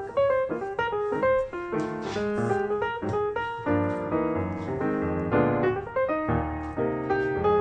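Background piano music: a quick melody over chords.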